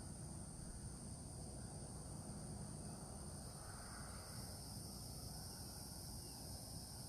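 A steady chorus of insects such as crickets or katydids, trilling continuously in several high-pitched bands, over a faint low rumble.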